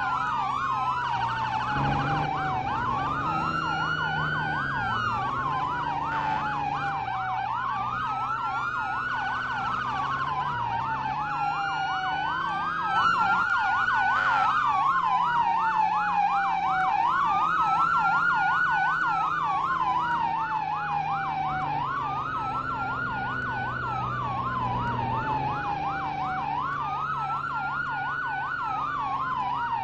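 Fire truck sirens sounding together: a fast yelp warbling steadily, with a slower wail over it that rises and falls about every two and a half seconds, and a low engine hum underneath.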